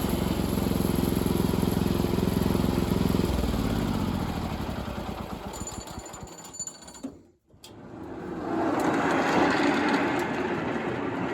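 An engine running steadily, then slowing about three seconds in and dying away. After a brief gap a steady, noisy rushing sound comes up.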